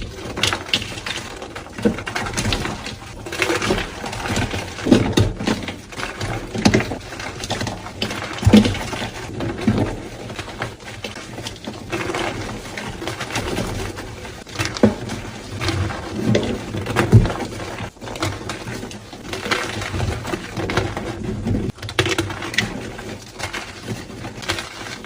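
Soft re-formed gym chalk being crushed and crumbled by hand, a continuous run of irregular soft crunches and powdery crackles.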